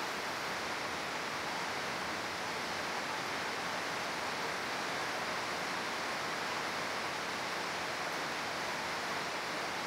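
Steady rain falling outside, an even hiss that holds at one level throughout.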